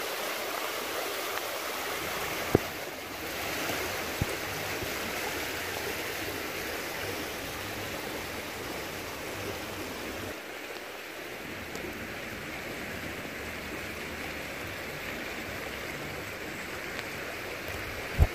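Floodwater rushing steadily, an even wash of water noise, broken by a few sharp knocks.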